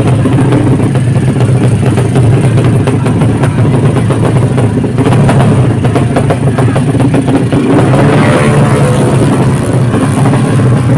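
Racing motorcycle engines running loudly and steadily, with a dense rapid crackle.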